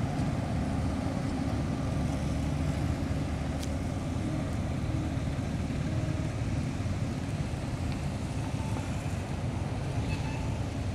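Steady low rumble of a diesel-hauled passenger train rolling away down the line, mixed with road traffic noise, with a single small click a few seconds in.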